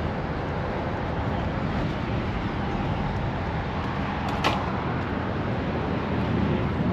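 Straight-piped Audi RS5 4.2-litre V8 running steadily without revving, with one sharp click about four and a half seconds in.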